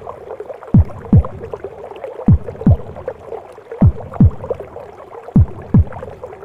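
A mother's heartbeat as heard inside the womb: low double thumps, each falling in pitch, four pairs about a second and a half apart, over a steady whooshing womb noise.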